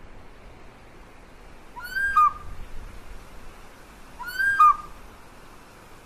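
A bird calling twice, about two and a half seconds apart, each a short, loud call of two rising notes, over a steady hiss.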